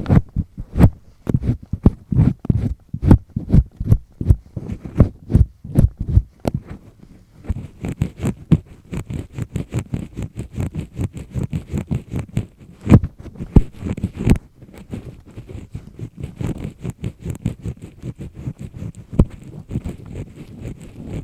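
Double-disc earpick scraping firmly inside an ear canal, close to the microphone: a dense, irregular run of rasping scrapes and soft low thumps.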